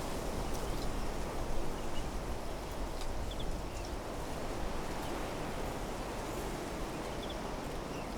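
Wind blowing through desert trees and shrubs, a steady rustling rush that swells and eases in gusts, with a few short, high bird chirps now and then.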